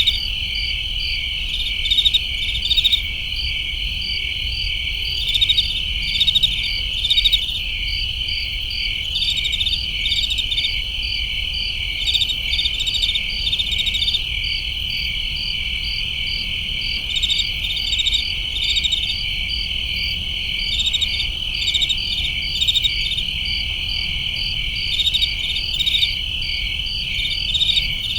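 Chorus of crickets chirping: a steady high trill under short trains of rapid chirps that come every second or two, over a faint low rumble.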